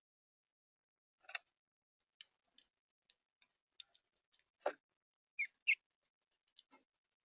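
Small songbirds at a feeder: scattered sharp ticks and short high chip notes, irregularly spaced, with a louder knock a little past halfway followed by two stronger chips.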